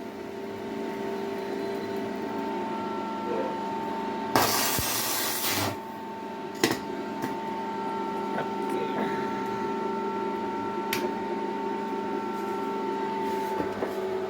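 Inverter welding machine running on test: a steady hum and whine with its cooling fan, a harsh hissing burst lasting over a second about four seconds in, and a couple of sharp clicks; near the end the whine stops and the fan note falls as it winds down.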